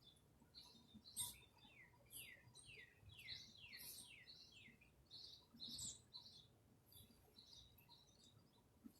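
Birds singing faintly: a quick run of downward-sliding notes in the first half, then scattered short high chirps.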